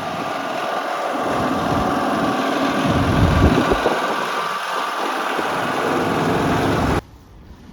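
A motor vehicle's engine running steadily, with gusts of wind buffeting the microphone. The sound cuts off abruptly about seven seconds in.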